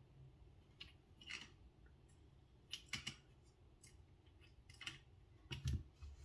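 Faint, irregular small metal clicks and scrapes of a screwdriver and tiny screws being worked on a folding knife's handle, the loudest pair near the end.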